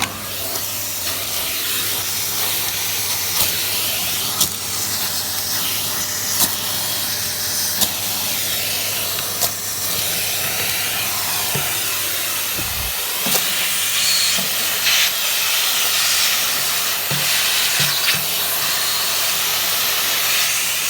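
Dyson CY28 cylinder vacuum cleaner switched on and running through its crevice tool: a steady loud hiss of suction over a low hum. Sharp clicks every second or two as broken glass ornament pieces are sucked in.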